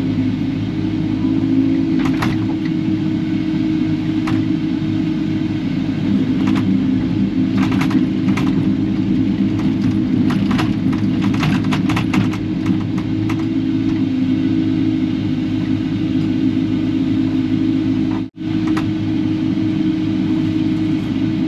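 Kubota KX080-4 excavator's diesel engine running steadily under work, with scattered clanks and scrapes of the bucket against scrap metal and trash, most of them in the first half.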